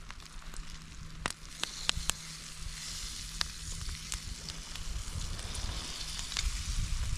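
Egg and sausage patties frying over a driftwood campfire: a steady sizzle with scattered sharp pops and crackles.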